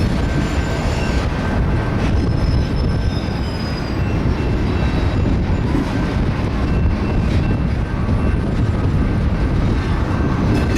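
Cars of a BNSF auto rack freight train rolling past, the wheels on the rails giving a steady loud rumble with faint thin high squealing tones above it.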